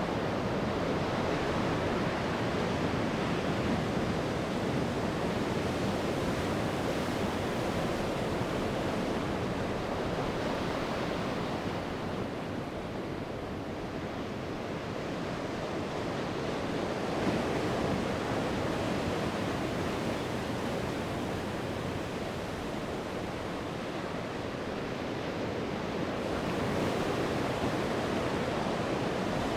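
Sea waves breaking and washing onto the shore: a steady surf noise that swells and eases slowly over several seconds.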